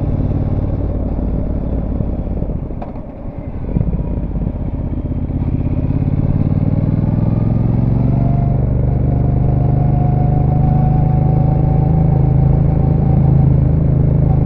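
Brixton Cromwell 1200's parallel-twin engine through its stock exhaust, heard on board while riding: it drops off briefly about three seconds in, then pulls again with its pitch rising steadily.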